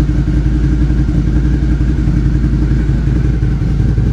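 Suzuki SV650's V-twin engine running steadily through a MIVV replica 370 mm muffler, with the catalytic converter removed, at an even engine speed.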